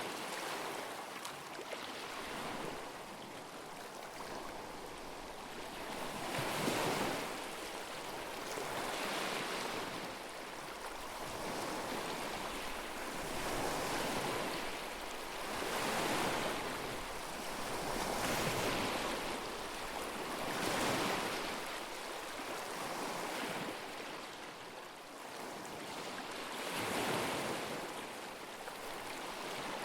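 Small waves on a lake washing in against the shore, each one a soft rush of water, coming every two to three seconds.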